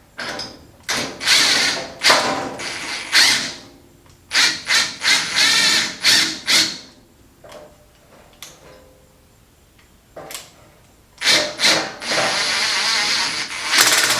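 Impact tool hammering as it turns the forcing screw of a three-jaw puller, pulling a pulley off the band saw's shaft. It runs in repeated short bursts with pauses, then in one long burst near the end.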